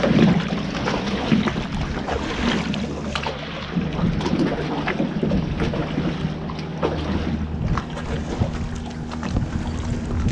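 A boat's engine running steadily, a low even hum, with wind buffeting the microphone and scattered small knocks.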